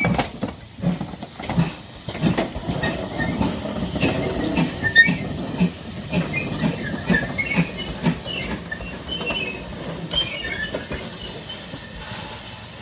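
Steam train running, its exhaust chuffing in a steady rhythm of about one and a half beats a second over a hiss.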